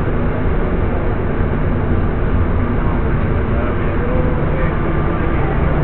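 Airport people-mover train running, heard from inside the car: a steady low rumble.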